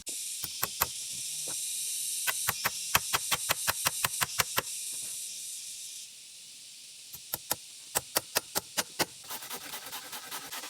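A series of sharp knocks, about four a second in quick runs, over a steady high hiss that cuts off about six seconds in. Near the end a denser run of fast, faint ticks begins.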